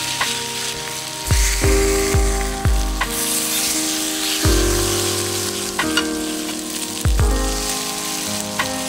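Food sizzling and frying on a hot iron teppanyaki griddle, a steady hiss, under background music with sustained notes and deep bass notes.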